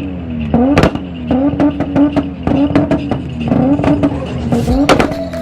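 Toyota 1JZ inline-six engine being revved in repeated blips, its pitch rising and falling around a held speed. Sharp exhaust pops and cracks come throughout, loudest about a second in and near the end.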